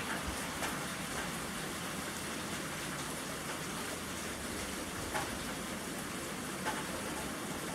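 Steady rain falling, with a few sharper drops or taps standing out about 5 and 6.5 seconds in.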